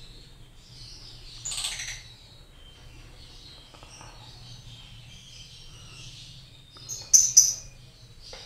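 Lovebirds chirping and chattering continuously in high, rapid calls, with a louder burst about a second and a half in and two loud, sharp sounds near the end.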